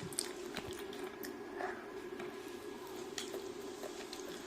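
Wet, squishy chewing and eating of fried chicken and rice, with scattered small clicks, over a steady low hum.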